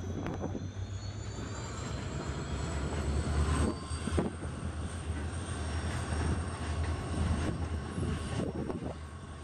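Diesel freight train of BOXN open wagons hauled by WDG-4D diesel-electric locomotives: a steady low engine drone with a thin high whine above it. Wheels knock over the rail joints now and then, most loudly about four seconds in.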